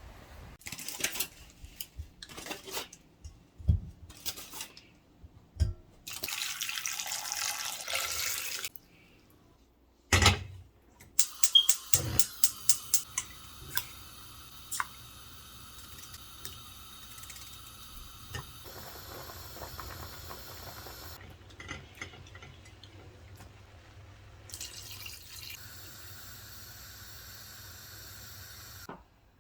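Water running in short spells, with knocks and a run of quick clicks in between.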